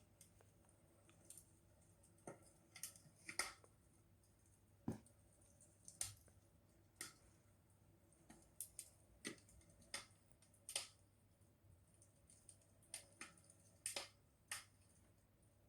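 Wood fire crackling: faint, irregular sharp pops and snaps, one or two a second.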